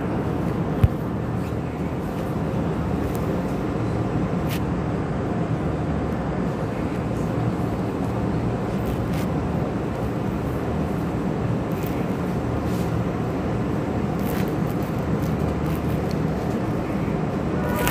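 Keisei 3500-series electric commuter train running, a steady rumble with low hum and a few sharp clicks.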